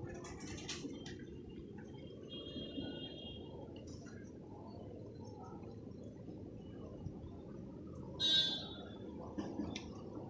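Steady rain with dripping, heard as a muffled low wash. There is a short high tone about two and a half seconds in, and a brief, louder high-pitched sound about eight seconds in.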